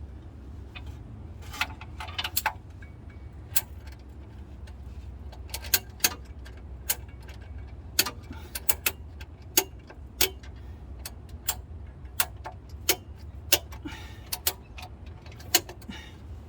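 Ratchet strap being tightened around a transmission: sharp, irregular clicks, often two or three close together, over a steady low hum.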